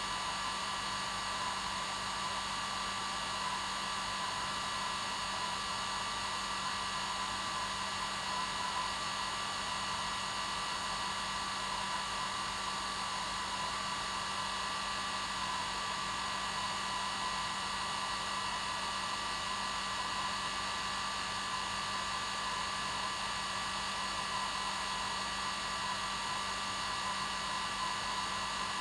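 Hair dryer running continuously at a steady speed: an even rushing whoosh of air with a constant motor whine.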